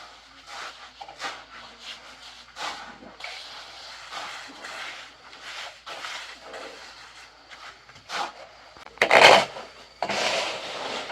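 Shovel scraping and turning a heap of mix in repeated irregular strokes, the loudest about nine seconds in.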